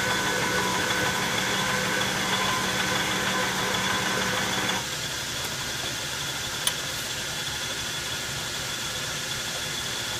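Metal lathe running with a steady motor hum that cuts off about five seconds in, leaving a quieter background hum and a single click.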